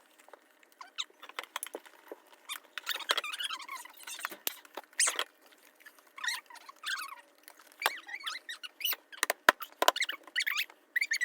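Homemade slime being stirred and squished by hand: irregular sticky pops and clicks with short wavering high squeaks, a sound called weird.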